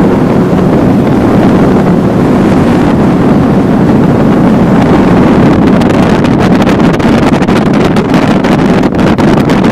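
Motorboat under way, its engine running steadily, with wind buffeting the microphone more heavily in the second half.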